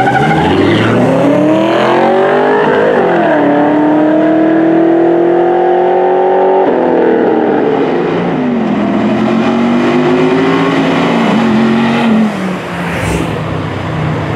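A race car's engine at full throttle, climbing in pitch through the gears, with gear shifts about three and seven seconds in and another pull afterwards. It fades out near the end.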